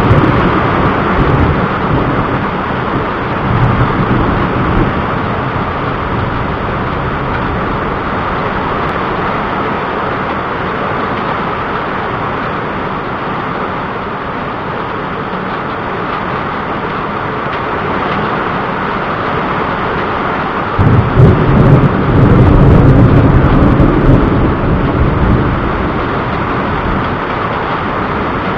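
Thunderstorm: steady rain with thunder rumbling, fading after the start, then a sudden loud peal of thunder about three-quarters of the way in that rolls on for several seconds.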